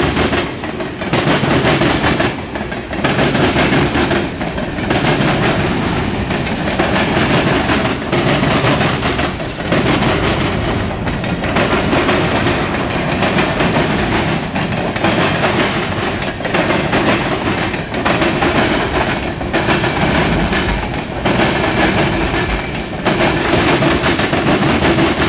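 CSX mixed freight train's tank cars rolling past at close range: a steady rumble and clatter of steel wheels on the rails, dipping briefly every couple of seconds.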